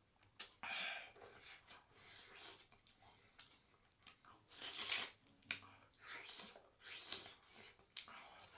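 A person eating close to the microphone: irregular bursts of chewing and mouth noises mixed with breaths.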